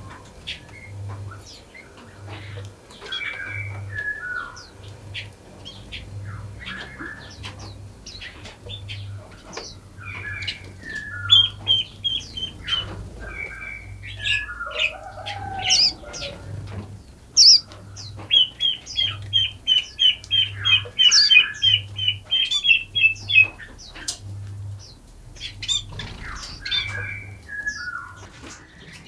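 Forest songbirds singing and calling: fast runs of repeated chirps, short falling two- and three-note phrases, and sharp high notes, several birds overlapping. A faint low pulse repeats about once a second underneath.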